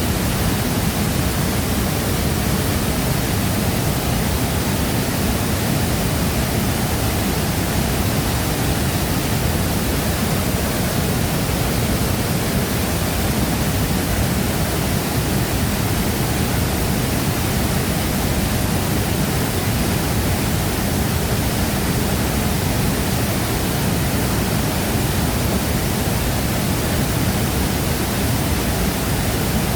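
Shifen Waterfall: a steady, unbroken rush of falling water, heaviest in the low range.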